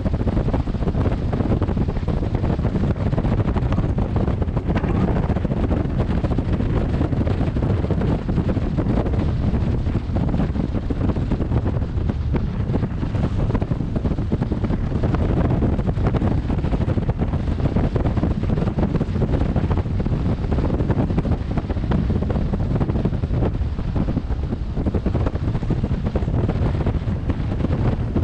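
Wind buffeting a helmet-mounted camera microphone on a moving motorcycle: a steady low rush of noise with no distinct engine note standing out.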